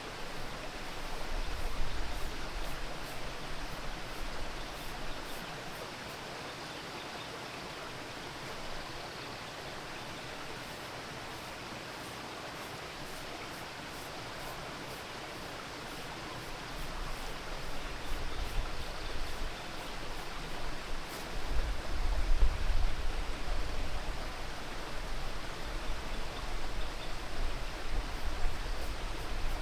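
Steady rushing noise of running water outdoors. Low rumbling swells in from about two-thirds of the way through and stays louder.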